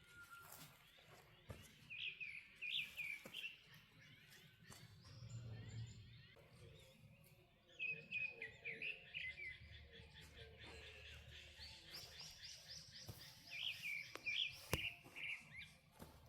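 Wild songbirds singing outdoors: a quick chirping song phrase comes three times, about two seconds in, around the middle, and near the end, with a thinner high trill or buzz joining before the last phrase.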